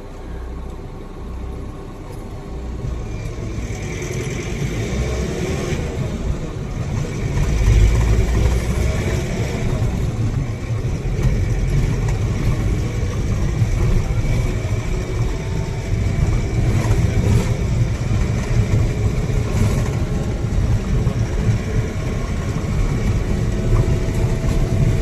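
Motor vehicle engine running with a steady low rumble, growing louder about eight seconds in as it picks up speed.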